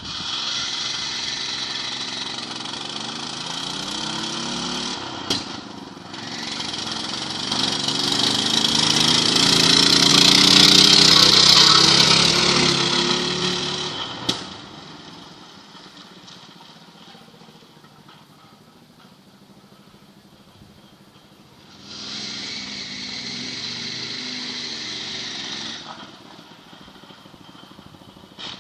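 Small single-cylinder walk-behind-tractor engine of 6.5 hp powering a VAZ-2109 car. Its pitch rises as it swells louder to a peak in the middle, then it fades away, and it comes back steady for a few seconds near the end.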